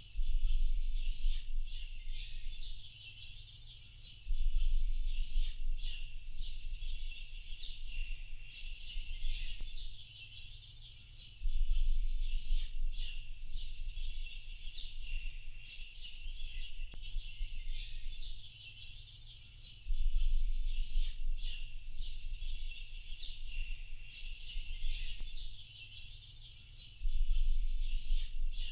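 A dense chorus of many small birds chirping and twittering without a break. A low rumble swells and fades in stretches of about two seconds, several times.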